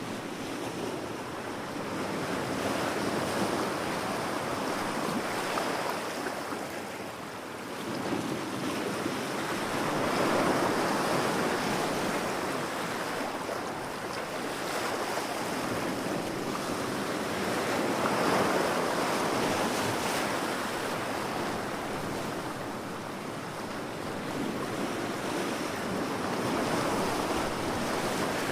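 Ocean surf breaking and washing up a beach, a steady rush that swells and eases four times, about every eight seconds.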